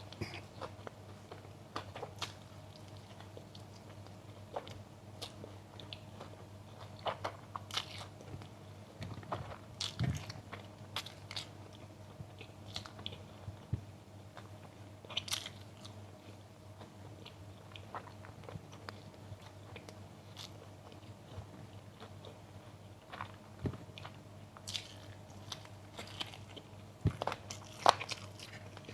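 Close-miked eating: crisp bites and chewing of crunchy food, irregular crunches coming every second or two, with a cluster of louder crunches near the end. A faint steady low hum sits underneath.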